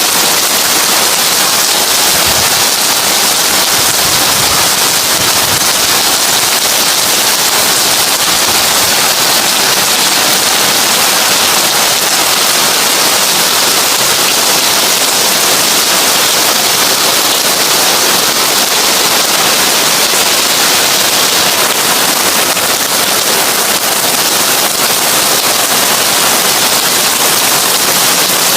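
Heavy rain drumming steadily on a tin roof: a dense, unbroken hiss of drops, brightest in the upper range.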